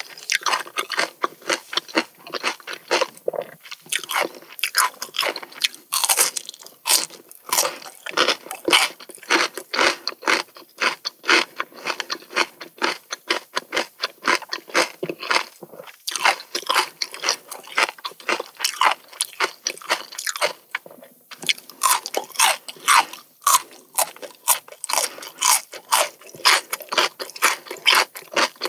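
A person biting and chewing crisp Korean melon (chamoe): a rapid run of crunches, several a second, with brief pauses between bites.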